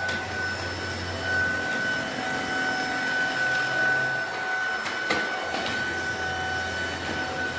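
Tineco A10 cordless stick vacuum cleaner running while picking up cracker crumbs: a steady high-pitched motor whine over a rushing air sound, with a few sharp clicks about five seconds in.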